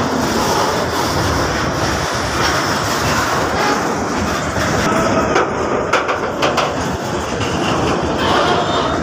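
Freight train of open-top wagons rolling past close by, its steel wheels and bogies making a steady rumble on the rails, with a few sharper clacks a little past the middle as wheels cross rail joints.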